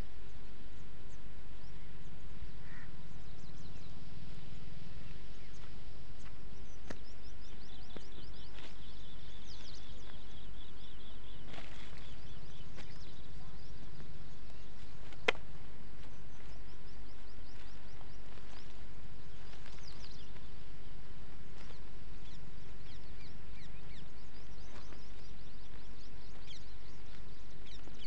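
Small birds chirping and calling over a steady low background rumble, with a rapid run of high repeated notes about ten seconds in. A single sharp click sounds about halfway through.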